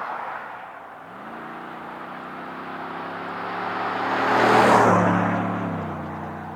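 A 2019-20 GM Silverado/Sierra 1500's 5.3L V8, breathing through a Flowmaster FlowFX dual-mode muffler, accelerates past. The exhaust note rises in pitch about a second in, grows louder to a peak a little before the five-second mark, then drops in pitch and fades as the truck moves away.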